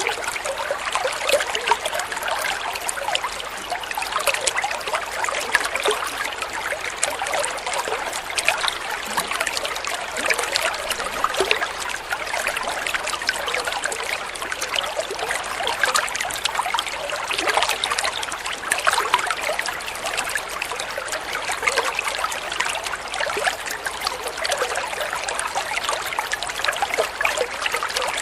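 Flowing water trickling and splashing steadily, a continuous bright rushing with constant small splashes.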